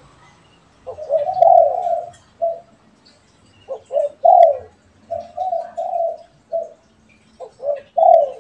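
Spotted doves cooing: repeated low, mellow coo phrases in three groups, each a few short notes and a longer drawn-out coo, the last cut off at the end.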